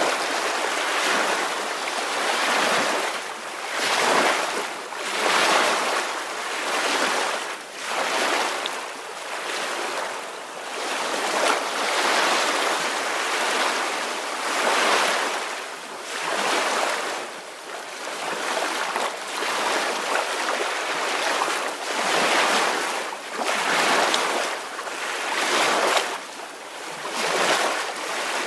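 Small ocean waves washing in and out, a hiss that swells and fades every second or two.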